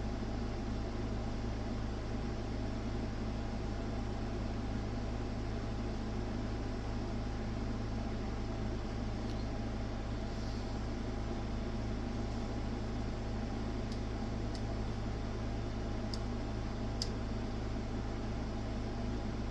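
Steady electrical hum with a fan-like whir that holds unchanged throughout, with a few faint clicks in the second half.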